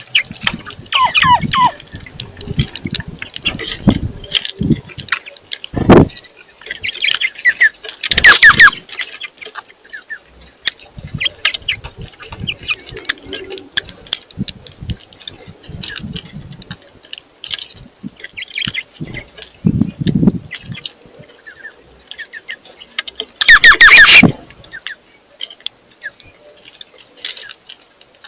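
Birds chirping and calling while feeding, with two loud, harsh squawks, one about eight seconds in and one later, and a few low thumps in between.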